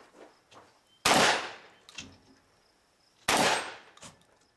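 Two shotgun shots a little over two seconds apart, each a sharp crack with a short decaying tail.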